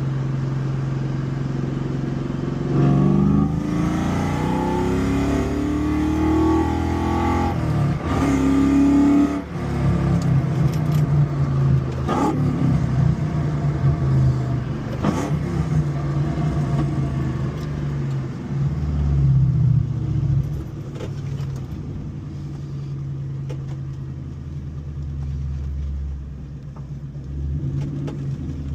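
2004 Ford Mustang Mach 1's 4.6 L four-valve V8 through long-tube headers, an off-road X-pipe and SLP mufflers, idling and revved: a long climb in revs that falls away, two short blips, then a steady idle.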